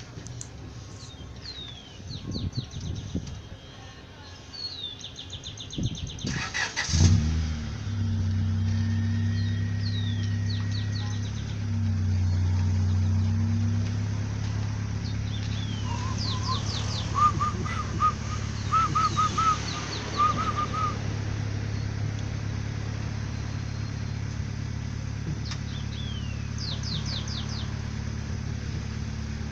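Car engine cranked and catching about seven seconds in, then idling steadily. Birds chirp repeatedly in short, high, falling notes.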